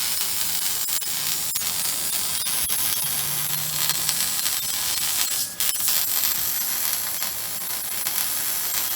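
Loud, steady hiss with faint crackling, strongest in the high end, with scattered clicks; it starts and stops abruptly.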